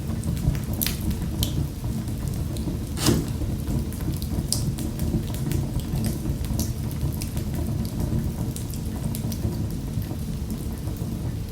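Wood fire crackling in a fireplace: a steady low rumble of burning with frequent sharp pops and snaps, one louder pop about three seconds in.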